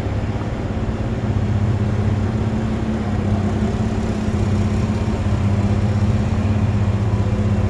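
Machinery running steadily with a low, even hum.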